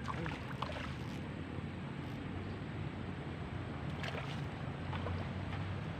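Steady noise of rain and flowing river water, with a few short clicks.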